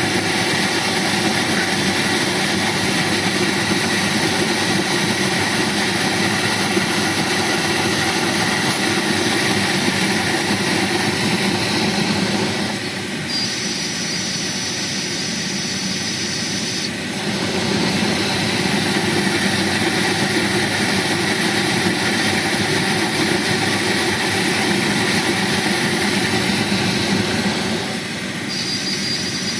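Skoda Octavia A5 heater blower fan running with a steady rush of air. Twice the rush drops a little, and a thin, high, steady whistle comes in for a few seconds: the heater-fan whistle this car is known for.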